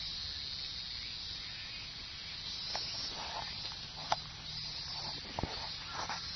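Cicadas buzzing in a steady, high-pitched chorus, with a few small clicks and a knock about five seconds in.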